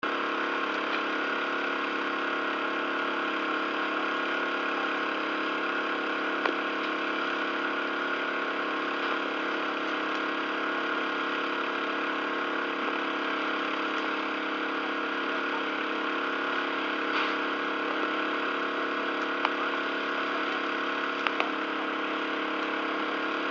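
A steady engine-like drone made of several fixed tones, unchanging throughout, broken by a few short sharp cracks.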